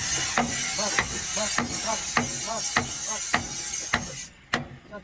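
Sharp mechanical knocks or taps at an even pace, a little under two a second, over a steady hiss that drops away near the end.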